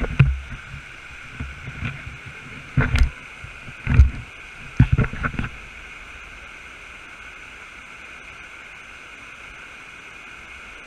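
Steady rush of a fast-flowing creek, with a few short low thumps during the first half.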